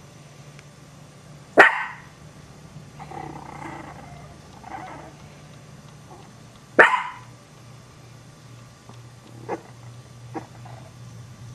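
Small dogs barking: two loud, sharp barks about five seconds apart, with quieter growling and short yips in between and later on.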